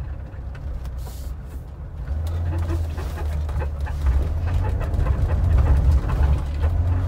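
BMW E30 325e's inline-six engine heard from inside the cabin as it pulls the car along, a low drone that grows louder about two seconds in and again about four seconds in. It is running badly, stumbling from a massive vacuum leak through a torn intake boot.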